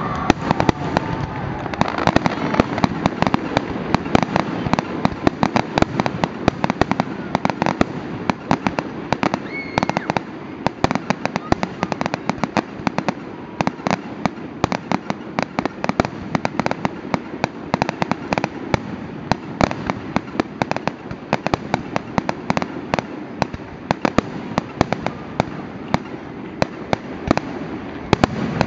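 Fireworks grand finale: a nonstop barrage of shells bursting, many sharp bangs a second over a continuous rumbling crackle.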